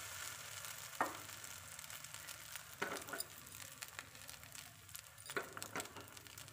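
Batter-dipped bread slice frying in hot oil and butter in a nonstick pan: a soft, steady sizzle with fine crackling and a few sharper ticks.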